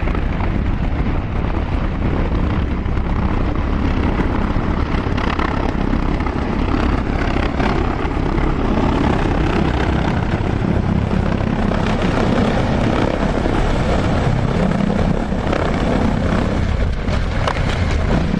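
Helicopter running, a steady loud noise of rotor and engine with a rapid low pulsing underneath.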